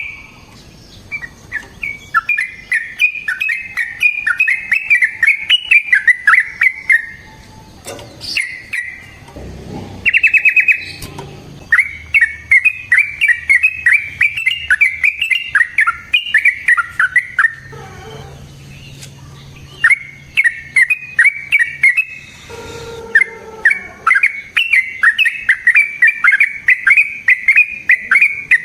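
Yellow-vented bulbul (trucukan) singing long runs of rapid, repeated bubbly notes, in several bursts with short pauses between them.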